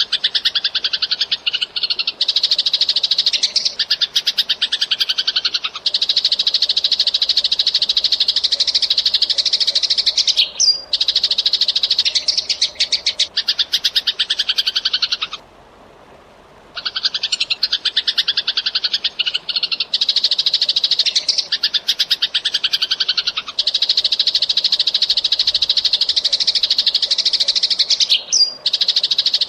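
Eurasian tree sparrows (burung gereja) chirping rapidly and densely in a continuous run of song, breaking off for about a second midway and then starting again.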